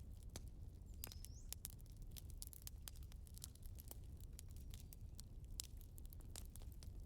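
Wood fire crackling: irregular sharp pops and snaps over a low steady rumble, with a brief high rising whistle about a second in.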